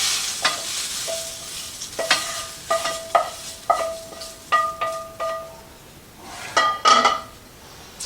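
A utensil scraping and knocking against a skillet of sizzling vegetables as they are moved out of the pan; each knock leaves the pan briefly ringing. The sizzle fades in the first seconds, the knocks come a dozen or so in quick succession in the middle, and a louder clatter follows near the end.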